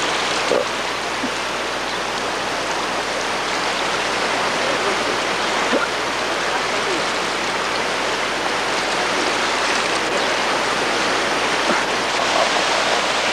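Flash-flood water rushing steadily down a wadi channel: a loud, even rush of water without a break.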